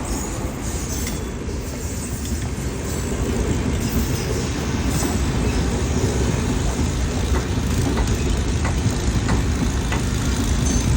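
Chandigarh–Bandra Express passenger train running on the track: a steady low rumble that grows a little louder, with faint wheel clicks over the rail joints in the second half.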